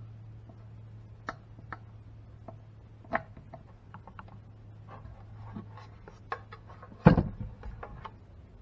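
Scattered light clicks and scrapes of hands and a tool working over a plastic ATV fuel tank, over a steady low hum that fades out about two-thirds of the way through. A louder knock comes about seven seconds in.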